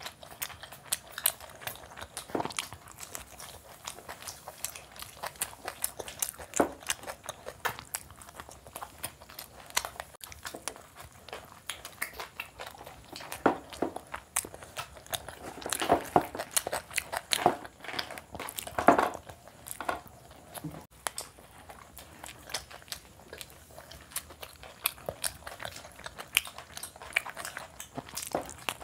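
Two people chewing and biting into pizza close to the microphone: many small, irregular crunches and mouth clicks, thicker and louder a little past the middle.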